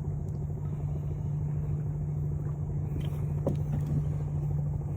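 Steady low motor hum, with a faint click about three and a half seconds in.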